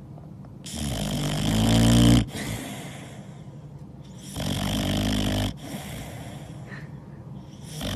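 A pet snoring: two long snores a few seconds apart, the first growing louder.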